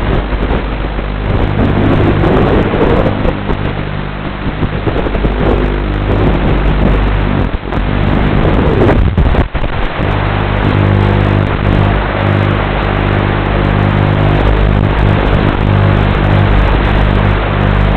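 FPV racing quadcopter in flight, heard from on board: propeller and wind noise with a steady buzzing hum under it. The sound drops out briefly twice, a little before and again about halfway through.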